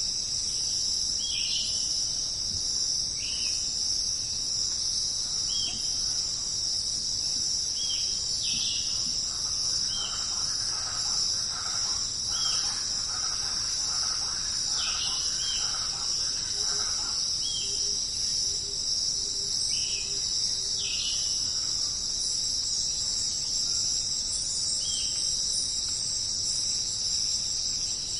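Steady, high-pitched chorus of rainforest insects such as crickets. Over it, a short falling chirp repeats every second or two, and a fainter chatter rises and falls in the middle.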